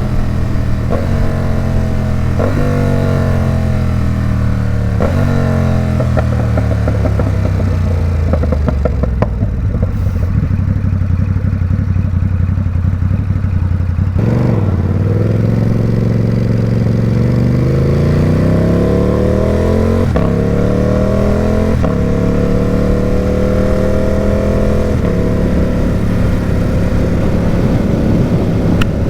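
Ducati Supersport 950 S's 937 cc Testastretta L-twin through a Competition Werkes aftermarket exhaust, heard from the saddle. The engine winds down through several gear changes and runs low and rough for a few seconds, then accelerates hard with upshifts and settles to a steady cruise.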